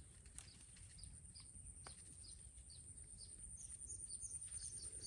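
Faint rural ambience: small birds chirping in short high notes, a few a second, growing busier near the end, over a steady thin high whine and a low rumble.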